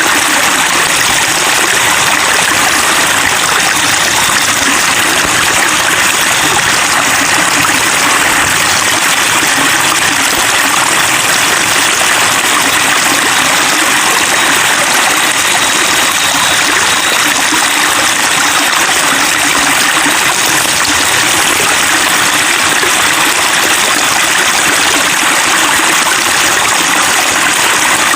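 Water trickling and splashing steadily, like a small stream or fountain, with an even, unbroken hiss.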